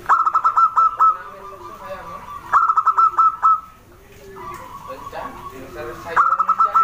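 Zebra dove (perkutut) singing: three phrases of rapid staccato cooing notes, each about a second long, one at the start, one in the middle and one at the end, with fainter calls between them.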